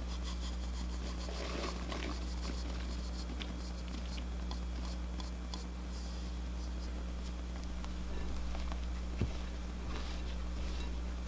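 Spatula scraping and folding macaron batter in a bowl, soft irregular scratchy and squishy strokes with a few small clicks, over a steady low hum.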